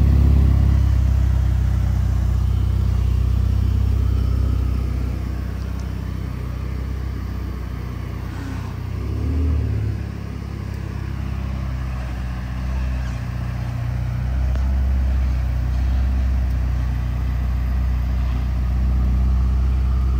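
Ferrari F8 Spider's twin-turbo V8 running at low revs, a steady low rumble, with a brief small rise in revs about nine seconds in.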